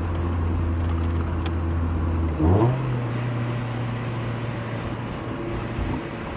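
Mazda Miata NB's four-cylinder engine running at steady low revs, then a quick rise in revs about two and a half seconds in, after which it holds a higher steady note.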